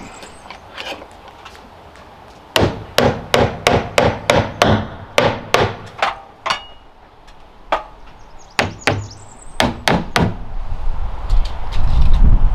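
Repeated sharp knocks of a tool striking wood, about three a second, in two runs separated by a short pause, followed near the end by a low rumble.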